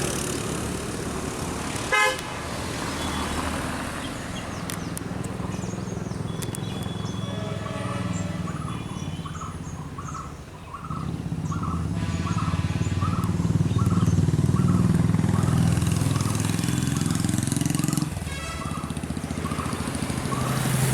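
Bus and car engines driving through a hill-road hairpin bend, with a short horn toot about two seconds in. From about eleven to eighteen seconds an engine runs louder, its pitch rising and falling.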